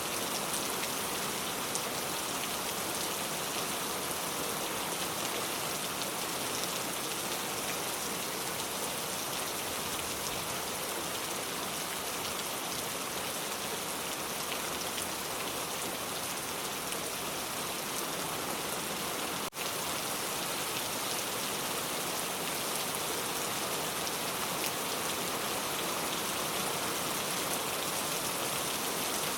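Steady rain falling, a dense, even patter of drops, with a split-second dropout about two-thirds of the way through.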